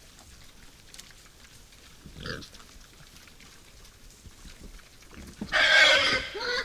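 Wild boar calling: a short call about two seconds in, then a much louder, harsh call lasting about a second near the end.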